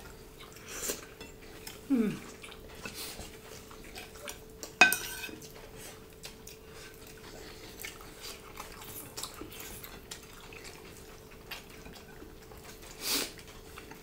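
Tableware handled during a meal eaten by hand: soft scrapes and light clicks on ceramic plates, with one sharp clink that rings briefly about five seconds in. A faint steady hum runs underneath.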